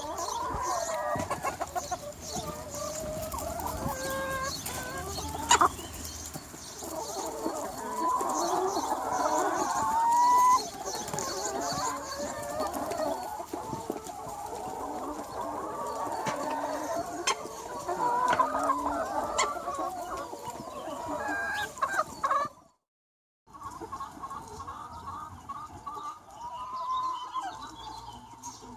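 A large free-range flock of chickens clucking and calling over one another without a break, many birds at once. About two-thirds of the way through the sound drops out completely for under a second, then the clucking resumes.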